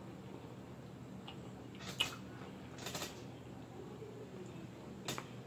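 Close-up eating sounds: chewing of fried rice and fried food, with a few short sharp clicks about two, three and five seconds in, over a low steady hum.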